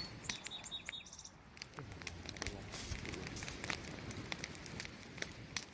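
Wood campfire crackling, with frequent irregular sharp pops and snaps over a soft hiss of burning. A faint high bird call sounds in the first second.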